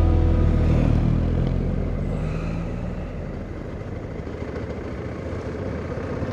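Sustained music tones fading out over the first three seconds, giving way to the steady running noise of a motorcycle on the move, engine and wind.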